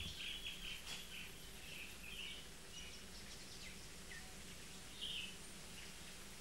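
Birds chirping in short twittering bursts, several in the first second and again about two and five seconds in, over a steady low hum and hiss.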